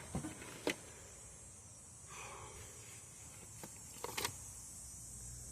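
A few short, sharp clicks and taps, two near the start and a small cluster about four seconds in, over a faint quiet background: tools and parts being handled during a spark plug change.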